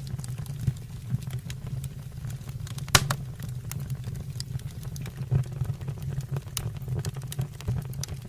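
Wood fire burning in a fireplace, crackling and popping with irregular sharp snaps over a low steady rumble of the flames. One pop about three seconds in is louder than the rest.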